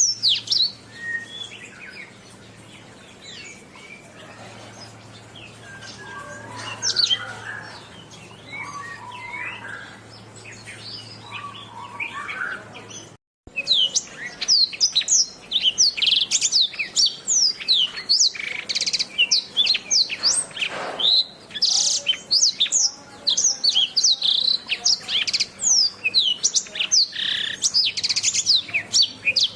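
Domestic canary singing. At first there are softer, scattered chirps over a faint low hum; after a brief dropout about halfway through, the song becomes loud and fast, a rapid string of quick falling notes.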